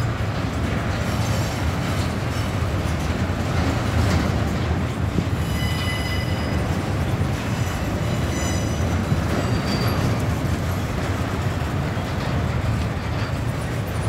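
Freight train rolling past with a steady low rumble of wheels on rail, and thin high-pitched wheel squeals that come and go from about five to ten seconds in.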